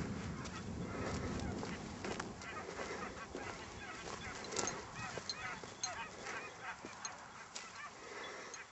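Distant scent hounds baying on a hare's trail: a run of short, irregular cries, the hounds giving tongue as they follow the scent.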